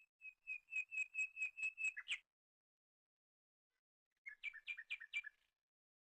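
A songbird singing a fast run of about ten repeated whistled notes, ending on a short downslurred note, then after a pause of about two seconds a shorter run of about five notes.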